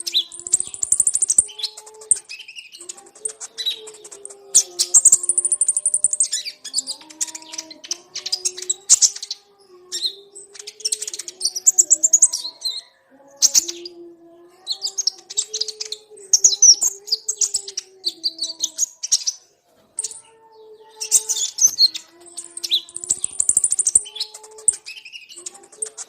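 A flock of ruby-cheeked sunbirds (kolibri ninja) chirping and twittering, high and rapid, in bursts a second or two long with short pauses between. A lower line of held notes moves slowly up and down beneath the chirping.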